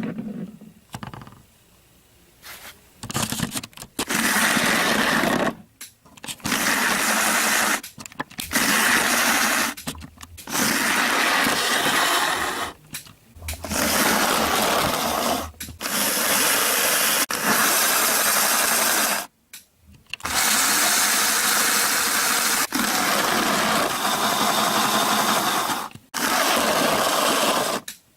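Bachmann model train locomotive's small electric motor and drive running on the track in repeated spells of a few seconds each, cutting out briefly and starting again several times.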